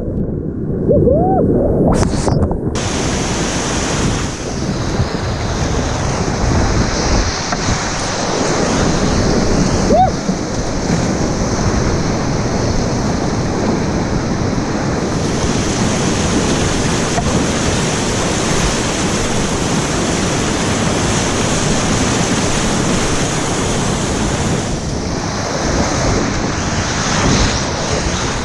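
Whitewater river rapids rushing loudly, with wind buffeting the microphone. The higher pitches are muffled for the first couple of seconds, then open up.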